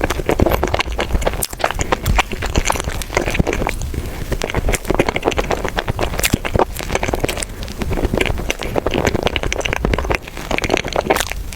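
Close-miked eating: a steady run of crackling, crunching clicks from food being chewed, over a low rumble.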